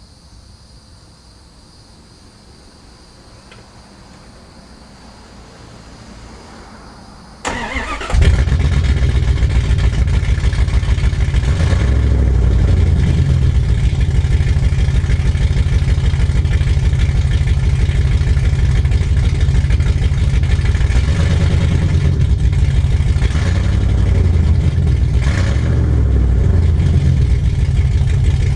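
A Dodge Dakota's 318 (5.2 L) V8 starts about seven or eight seconds in and then runs loud and steady with a deep, pulsing low note. It exhausts through a freshly built 3-inch exhaust with a 12-inch glasspack and no catalytic converter, a setup the owner found too loud and terrible-sounding.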